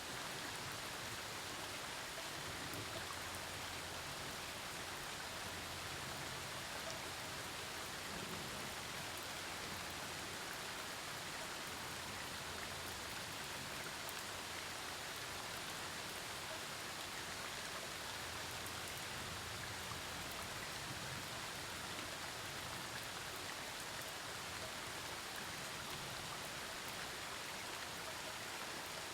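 Steady rain falling during a thunderstorm, an even hiss of many drops pattering on surfaces, with a faint low rumble underneath at times.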